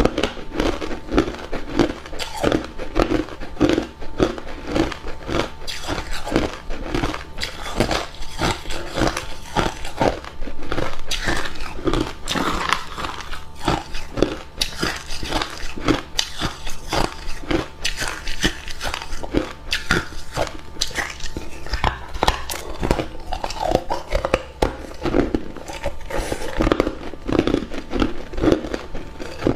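A person biting and chewing hard cube ice: a dense, continuous run of sharp crunches and cracks, several a second.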